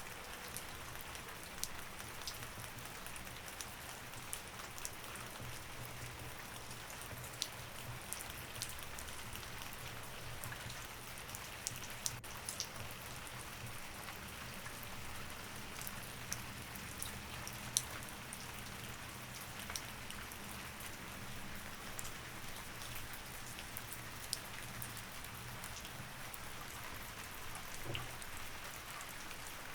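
Steady rain falling, with individual drops ticking sharply on a hard surface here and there.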